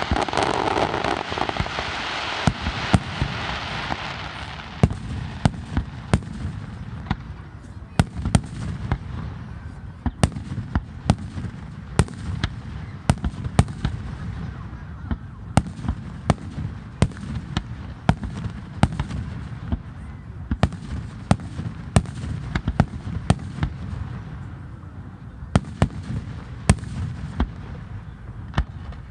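Aerial fireworks display bursting: many sharp bangs at irregular intervals, sometimes several close together, over a low rumble. A louder rushing haze fills the first few seconds.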